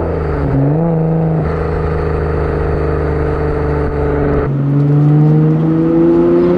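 Nissan Skyline R32 GT-R's RB26DETT twin-turbo straight-six running through a freshly fitted, straight-piped Tomei titanium header-back exhaust. The engine note drops and dips in the first second, holds steady, then rises steadily as the car accelerates in the second half.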